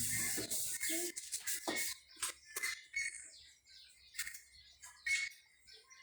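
Scattered squeaks, clicks and knocks of plastic refrigerator parts being scrubbed with soap and handled, busiest in the first two seconds.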